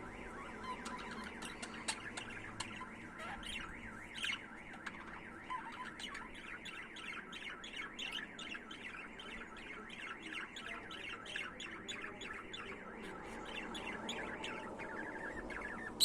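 Budgerigars chirping and warbling in a continuous, rapid chatter of short notes, with a few louder sharp calls about two and four seconds in.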